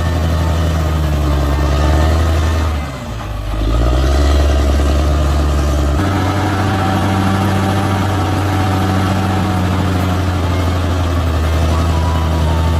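Large bulldozer's diesel engine running steadily under work, with a brief dip in revs about three seconds in that picks back up, and another shift in engine pitch about halfway through.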